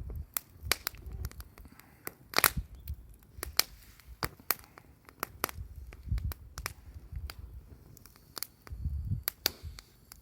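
Wood campfire crackling, with irregular sharp pops and cracks, the loudest about two and a half seconds in, over a few low rumbles.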